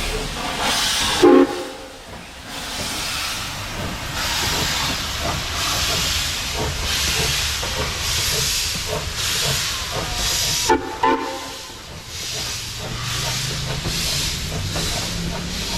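Steam locomotive working slowly, its exhaust chuffing about once a second over hissing steam. Short loud sharp sounds come about a second in and again twice near eleven seconds.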